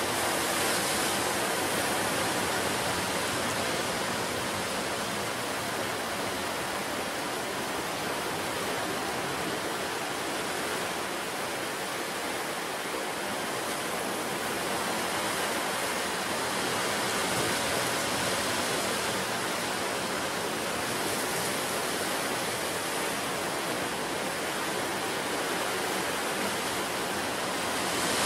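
Sea surf washing on the shore, a steady rush that swells a little now and then as waves come in.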